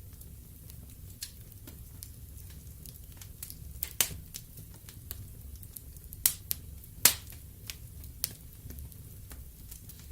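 Wood fire burning in a fireplace: logs crackling with frequent small ticks and a handful of louder sharp pops, the loudest about seven seconds in, over a steady low rumble of the flames.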